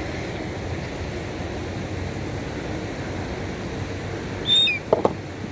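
Steady outdoor wind and background noise. Near the end a bird gives a short high call that falls in pitch, followed at once by two sharp clicks.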